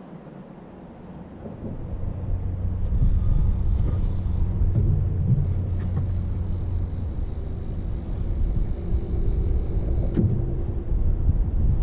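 Boat engine running at a steady low rumble, rising in level about a second and a half in as the boat moves onto a new fishing spot.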